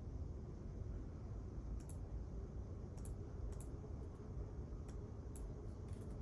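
Quiet library room tone: a steady low rumble with a handful of light, scattered clicks of keyboard keys.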